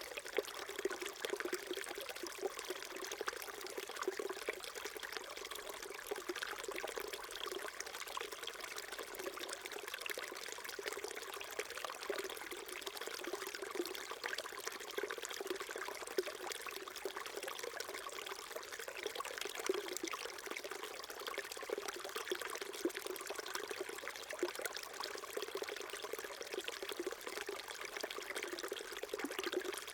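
Small stream trickling and babbling over stones, a steady even burble of running water with constant small splashes.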